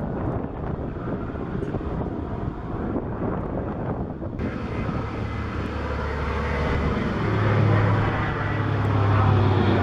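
Twin radial engines of a Consolidated PBY Catalina flying past, a low propeller drone that grows louder through the second half.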